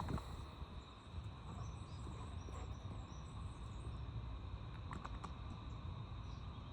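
Steady insect drone over a low rumble, with faint high bird chirps and a few short sharp calls about five seconds in.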